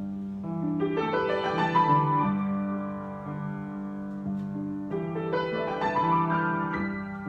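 Solo piano improvisation: sustained chords over low held notes, with a run of quick notes rising and ringing out about a second in and again about five seconds in.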